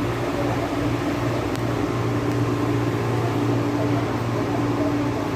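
Steady hum inside an MTR East Rail line Metro-Cammell (MLR) electric train, with a low drone and a higher tone held steady over an even background noise.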